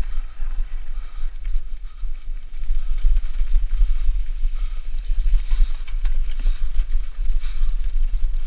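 Mountain bike rolling over trail, with scattered small clicks and rattles from the bike. A loud, steady, deep rumble from wind buffeting the action-camera microphone sits under it throughout.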